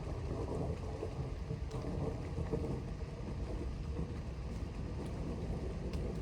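Low, steady rumble of distant thunder from an approaching thunderstorm, with a few faint ticks.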